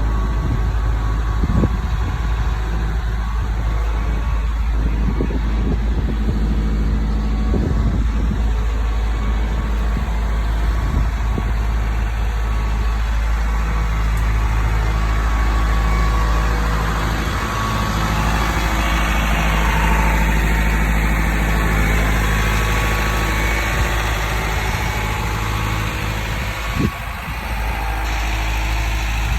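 2008 Isuzu NRR box truck's four-cylinder turbodiesel engine idling steadily, with a few short knocks now and then.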